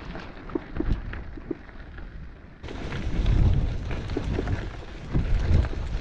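Strong wind buffeting the microphone: a gusting low rumble that grows heavier about two and a half seconds in.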